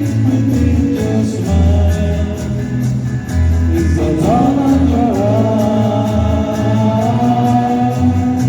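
A live band playing with a singer: a sung melody held and sliding in pitch over guitar and a pulsing bass line.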